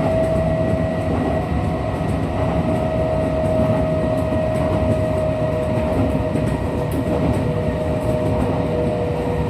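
Kintetsu 1233-series electric train running, heard from inside the car: a steady rumble of wheels and running gear with a whine that falls slowly in pitch as the train slows. This set is singled out as a car that makes an abnormal noise.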